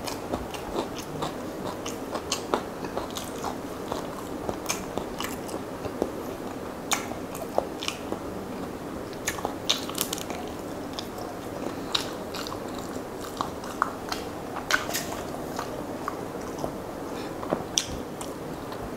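A person chewing mouthfuls of rice and curry, eaten by hand, close to the microphone: a steady run of short, wet mouth clicks.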